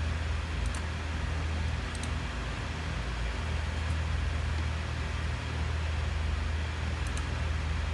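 Steady low electrical hum under an even hiss, with a few faint ticks.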